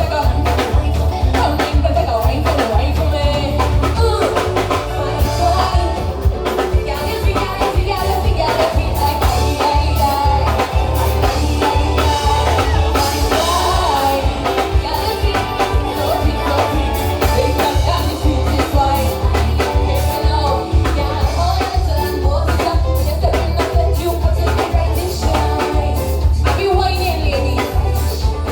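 Loud live soca music over a PA system: heavy bass, a driving drum beat and a singer's voice.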